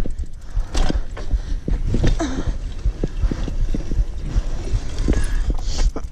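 Bicycle clattering and rattling as it rides over bumpy ground, with quick, irregular knocks over a steady low rumble.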